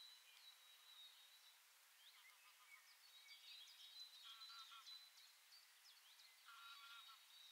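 Faint birdsong: several birds chirping at once, with short rapid trills about halfway through and again near the end.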